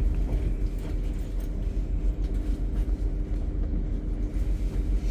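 Steady low rumble of an intercity train underway, heard inside the carriage, with a constant hum running under it.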